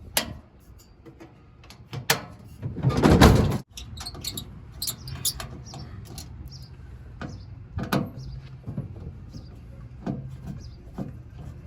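Metal clicks and knocks as the legs of a Traeger Scout portable pellet grill are fitted and locked in place, with one louder scraping slide about three seconds in.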